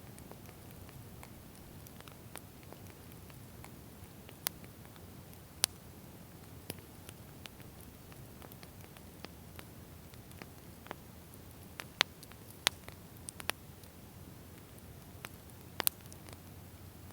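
Wood fire crackling: irregular sharp pops and snaps over a faint, steady low hiss, with a few louder pops in a cluster past the middle.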